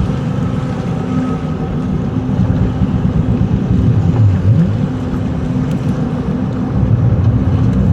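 Boat engine running at low revs, its pitch briefly dipping and rising once about four and a half seconds in.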